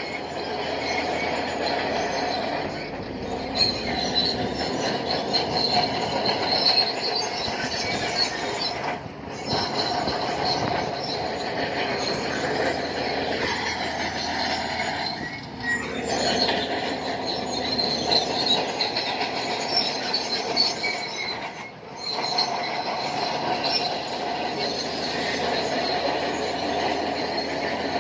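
Shantui crawler bulldozer running, its steel tracks squealing steadily as it moves, with one squeal sliding down and back up in pitch about halfway through.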